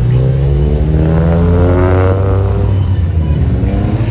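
A Honda Civic's four-cylinder engine driving past: the engine note climbs in pitch to about two seconds in and then drops away, over a steady low rumble of other running cars.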